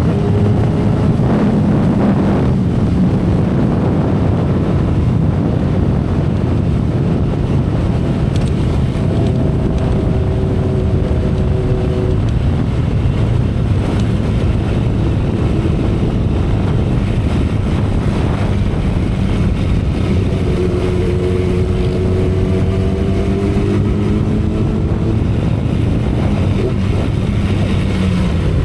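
2012 Kawasaki Ninja ZX-10R's inline-four engine running at expressway cruising speed, heard from the saddle with heavy wind rush and road noise. The engine note stays steady, dipping slightly in pitch early on and rising gently in the last third.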